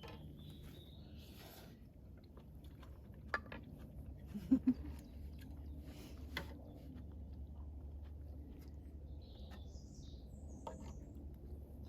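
A few faint bird chirps: a short call near the start and a couple of curving calls near the end, over a low steady hum. Several small sharp knocks, the loudest a close pair about four and a half seconds in.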